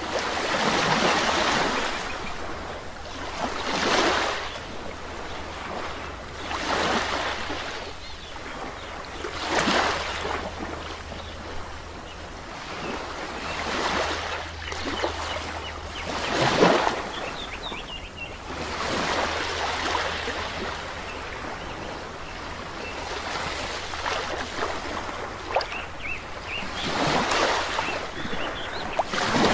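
Sea waves breaking on a shore, surging and falling back every few seconds, one of them louder about halfway through. Faint bird chirps come in briefly.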